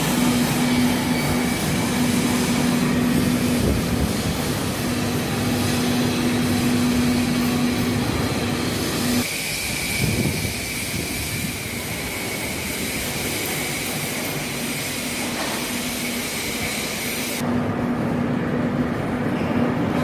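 Railway train running, with a steady hum and a higher steady whine over rumbling noise; the sound changes abruptly about nine and seventeen seconds in.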